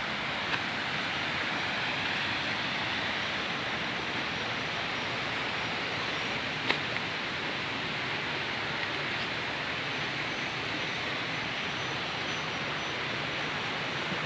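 Steady rushing of flowing water, with a single sharp click about seven seconds in.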